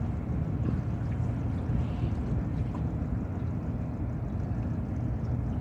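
Honda 20 hp four-stroke outboard motor running steadily, driving a small aluminum boat.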